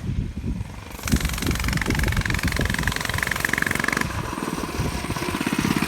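Small pull-start dirt bike engine running as the bike rides toward the listener, getting louder about a second in. It is not yet at its fastest.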